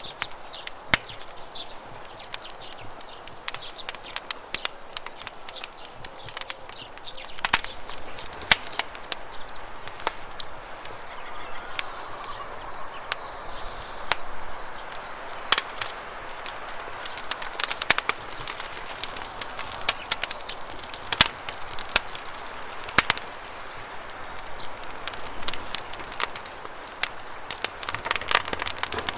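Campfire crackling with sharp, irregular pops over a steady rush of flowing river water. A bird's high, rapid chirping comes in around the middle, twice.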